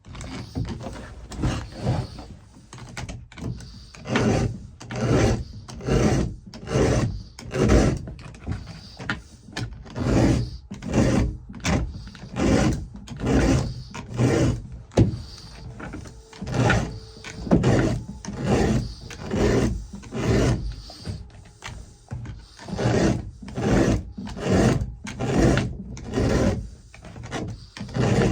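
Chainsaw file rasping across chainsaw chain cutter teeth in even, repeated strokes, with short pauses every few strokes as the file moves on to the next tooth. It is a hand sharpening of the chain, about five strokes per tooth.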